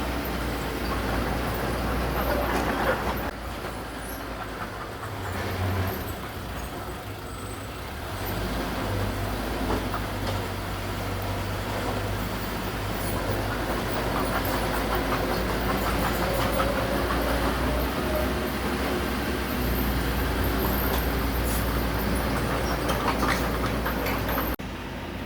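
Heavy diesel earthmoving machinery running steadily, its low engine drone overlaid with continuous clanking and rattling, with abrupt shifts in the sound about three seconds in and near the end.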